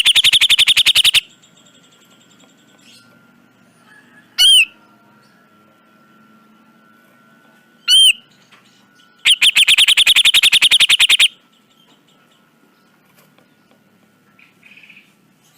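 Cucak jenggot (grey-cheeked bulbul) calling: a fast rasping rattle of about a dozen notes a second at the start, two single sharp arched notes a few seconds apart, then another rattle of about two seconds in the middle.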